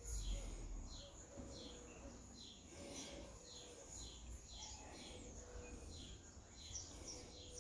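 Faint bird calls: a short chirp sliding downward in pitch, repeated about twice a second, over a low background rumble.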